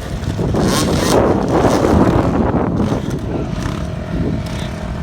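Motocross bike engines running on a dirt track, revving and easing off as the bikes go round.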